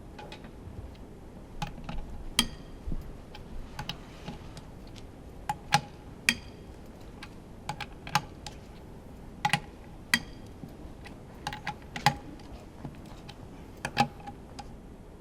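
Irregular sharp clicks and taps of hand tools and metal parts clinking as a Honda V10 Formula 1 engine is taken apart. Three or four of the taps ring briefly with a metallic tone.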